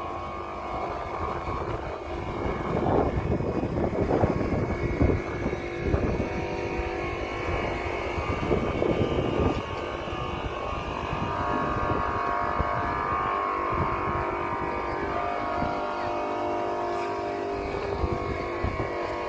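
A motor running steadily with a held hum of several pitches, under irregular low buffeting typical of wind on the microphone.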